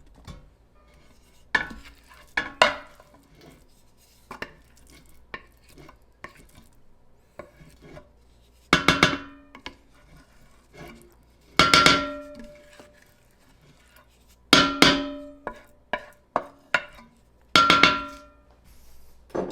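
A metal utensil knocking and scraping leftover food out of containers into a metal pot. There are about half a dozen loud clanks that ring briefly, with lighter taps and scrapes between them.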